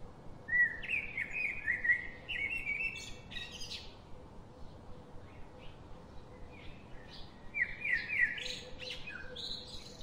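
Birdsong: two bursts of rapid warbling chirps, the first from about half a second in, the second near the end, over a faint steady background hiss.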